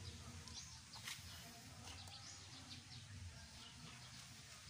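Faint chirping of small birds: many short, high chirps scattered throughout, over a low steady hum, with a single click about a second in.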